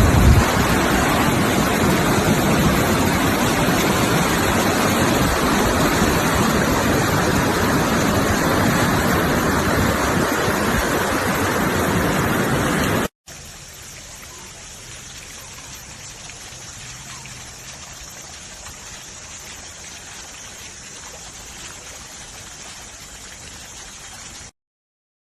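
Steady rushing water. About halfway through it cuts abruptly to a much quieter, softer flow, which stops suddenly near the end.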